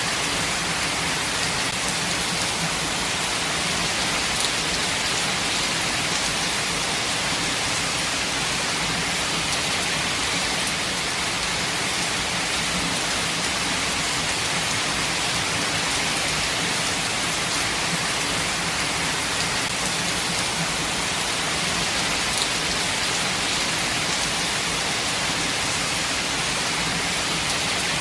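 Steady rain falling in a forest, an even hiss of many drops with a few faint individual drop ticks.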